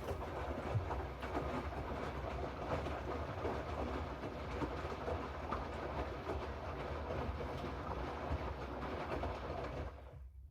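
Hoover washing machine drum turning for about ten seconds with the load tumbling: a steady rumble with many small clatters, stopping suddenly near the end.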